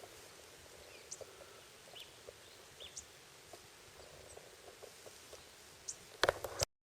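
Quiet outdoor background hiss with scattered short bird chirps and calls. About six seconds in come a few loud knocks, then the sound cuts off suddenly.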